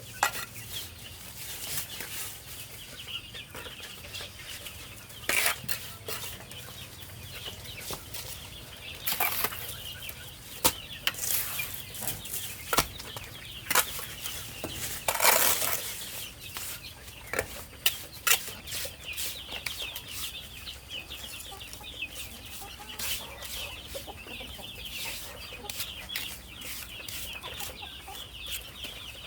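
Chickens clucking and calling steadily, with scattered clicks and a few short noisy bursts, the longest about halfway through.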